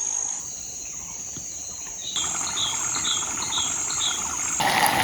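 Forest insects keep up a steady high-pitched drone. About halfway through, a bird calls five short notes in quick, even succession. Near the end the sound cuts to a louder steady hiss.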